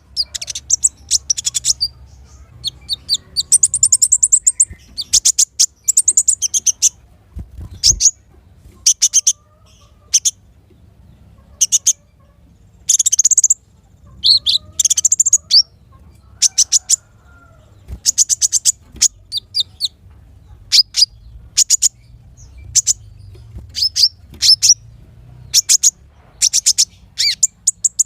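Small songbirds singing: volleys of short, sharp, very high chirps and quick rattling trills, broken by brief pauses.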